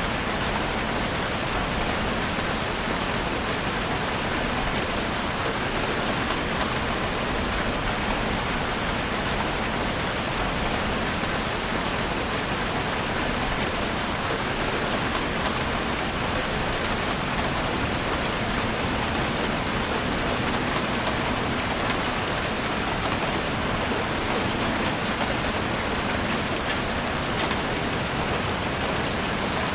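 Heavy rain falling steadily on a chalet roof, a dense even hiss with fine scattered drop ticks.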